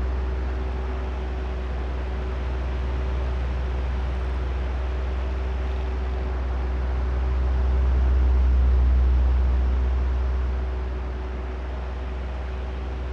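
Oscillating electric fan running: a steady whoosh of air from the blades over a low motor hum. The rush swells slowly as the head sweeps toward the microphones and eases off again as it turns away.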